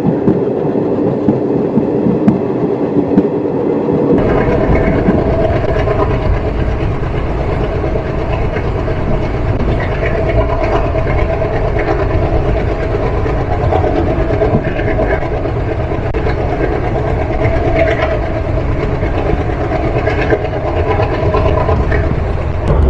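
Passenger train running along the line: a steady rumble and rush of wheels on rail and air streaming past the coach, with faint scattered knocks. About four seconds in, the sound turns deeper and louder.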